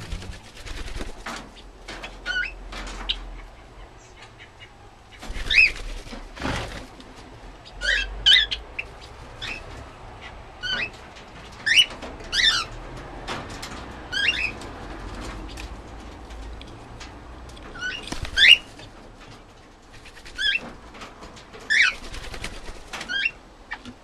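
Aviary birds calling in short, wavering chirps that rise and fall in pitch, repeated roughly every one to two seconds, with scattered short sharp taps between the calls.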